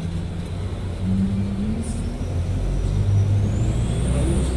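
Low, steady rumble of a motor vehicle running, with a faint high whine that rises and then falls near the end.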